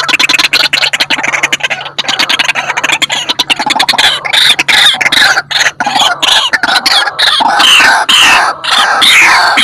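White-breasted waterhen calling loudly: a fast rattling train of notes that turns, about four seconds in, into repeated swooping croaking calls, with a low steady hum underneath that stops about six seconds in.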